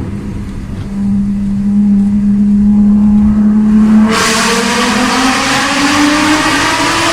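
Car engine under acceleration: a steady drone slowly climbing in pitch, then about four seconds in the sound suddenly turns louder and fuller with a rushing noise, the pitch still rising as it revs.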